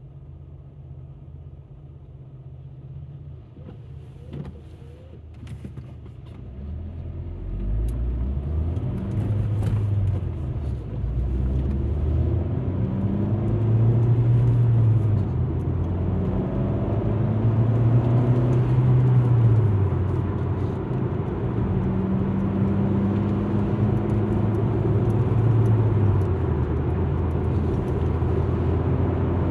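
Alfa Romeo MiTo's engine heard from inside the car, quiet at first, then pulling away and accelerating, its pitch climbing and dropping back several times through gear changes, over steady tyre noise.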